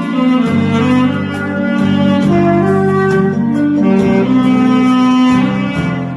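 Saxophone playing the melody of a song in a string of held notes.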